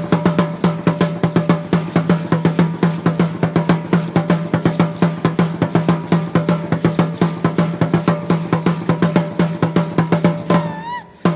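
Drumming for an Aztec Chichimeca dance: a deep-toned drum beaten in a fast, even rhythm of many strokes a second. About ten seconds in, a brief wavering high tone rises over it.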